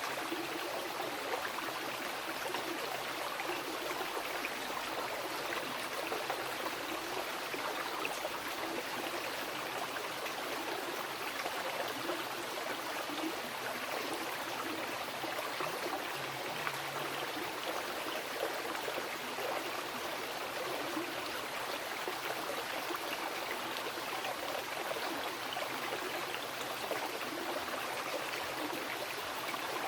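Mountain river flowing over rocks: a steady rushing and babbling of water with fine splashing detail and no pauses.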